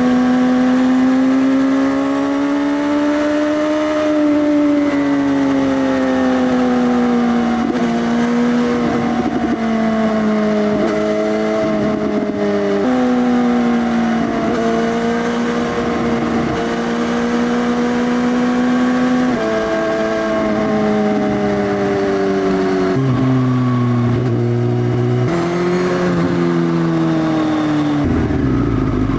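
Suzuki GSX-S1000 inline-four running through an Arrow Race Tech full exhaust system with the dB killer removed, under way on the road. The engine note rises and falls steadily, with several sudden pitch changes as the rider shifts gears, and turns rougher near the end.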